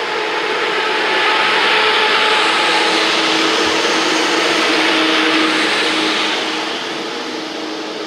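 ICE 1 (class 401) high-speed train rolling past along the platform: a steady rushing noise with a low hum, swelling about a second in and easing off after about six seconds.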